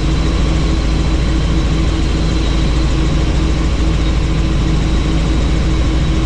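Helicopter in flight heard from the cabin: a steady rapid rotor beat under an engine whine with a thin high tone, and rushing wind noise.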